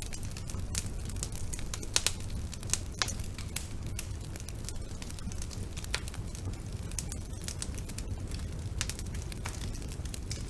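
Wood fire burning in a fireplace: irregular sharp crackles and pops over a steady low rumble of the flames, with a couple of louder pops about two seconds in.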